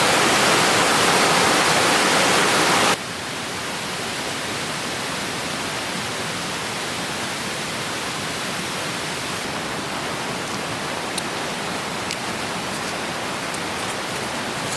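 Steady rushing of a clear stream's flowing water; about three seconds in it cuts abruptly to a quieter, steady water sound, with a few faint ticks near the end.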